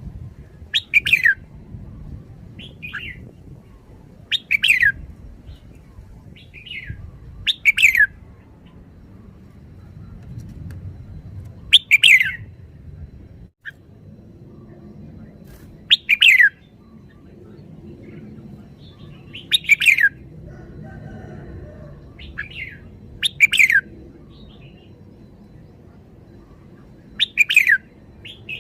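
Red-whiskered bulbul singing short, loud phrases that sweep downward, repeated about every four seconds, with softer notes in between.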